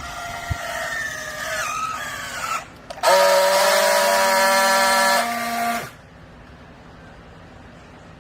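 Hydraulic scrap carpet baler at work: a squeal that slides down in pitch for a couple of seconds, then a loud, steady, horn-like tone for about three seconds that cuts off suddenly.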